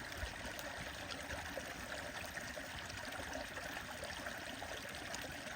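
A stream running steadily, with faint scattered crackling ticks from a wood fire.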